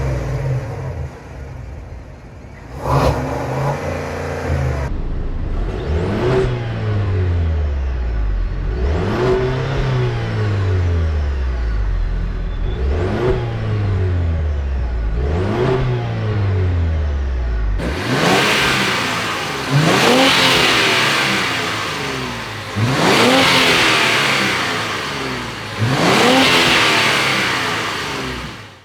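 Performance car engines revved again and again, the pitch climbing sharply and falling back each time. About 18 s in, the sound changes to a different car with three louder, harsher revs.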